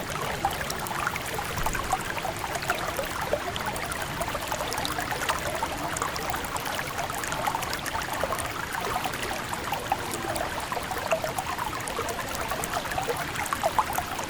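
River water flowing and babbling steadily, a dense trickling and splashing with no pause.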